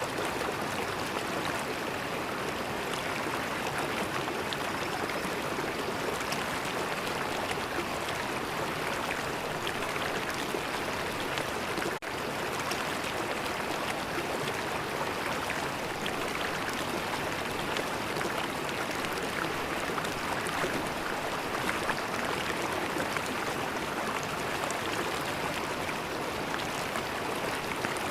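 River water flowing steadily, a continuous rushing and gurgling, with a momentary dip in level about twelve seconds in.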